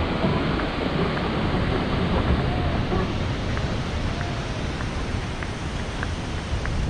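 Steady rushing of a mountain stream, with a few faint light ticks over it.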